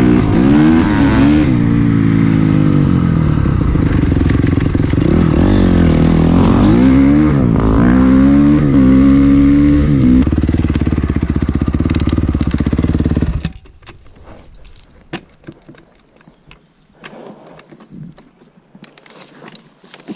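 Dirt bike engine being ridden, revving up and easing off again and again as the rider works through the throttle and gears. It cuts off suddenly about thirteen seconds in, leaving only faint scattered ticks.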